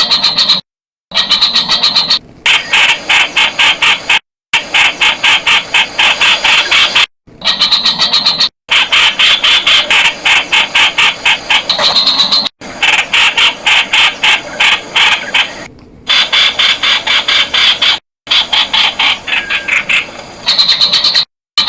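Streak-eared Bulbul calling: fast chattering runs of sharp, high notes, about ten a second. The runs are cut off abruptly by short dead-silent gaps every few seconds, like spliced recordings.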